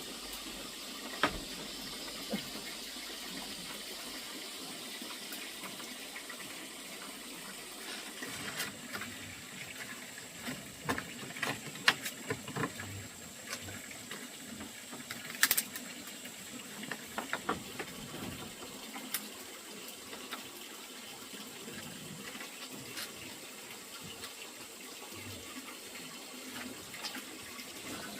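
Water running steadily, with scattered clicks and knocks, most of them in the middle stretch.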